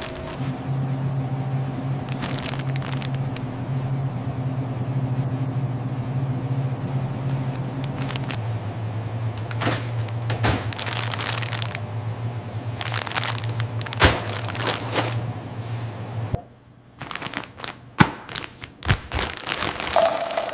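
A steady machine hum that drops slightly in pitch about eight seconds in and cuts off at about sixteen seconds, with scattered clicks and knocks throughout.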